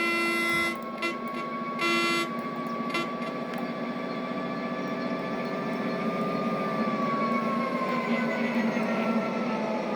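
Train horn sounding a few short blasts, then a train running through at speed: its rumble builds and the engine tone falls in pitch as it passes.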